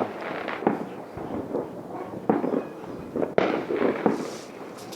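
Fireworks and firecrackers going off: many irregular bangs and pops, some faint and some sharp, with the loudest about two and three and a half seconds in.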